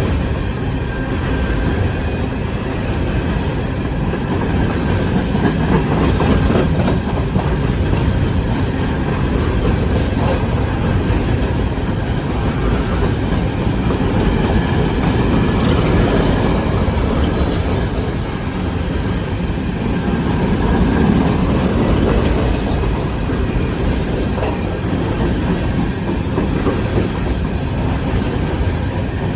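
Empty coal hopper cars of a CSX freight train rolling past with a continuous rumble and clatter of steel wheels on rail.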